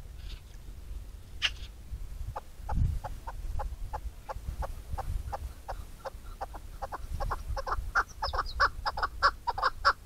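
A bird giving a long series of short clucking calls, about three a second, growing louder near the end.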